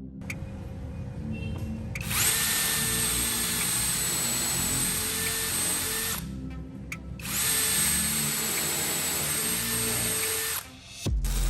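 Electric power tool, drill-like, running twice with a high whine: about four seconds, a short pause, then about three seconds more. Background music plays throughout.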